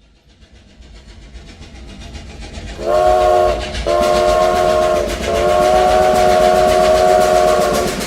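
A train approaching, the rhythmic clatter of its wheels on the rails growing louder, then its chime whistle blowing three times: two short blasts and one long one.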